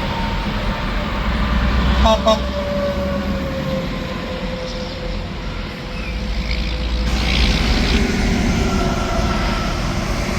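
Interstate highway traffic passing: tractor-trailer engines and tyre noise, with whines that fall slowly in pitch as vehicles go by and swell again later on. Two short tones sound about two seconds in.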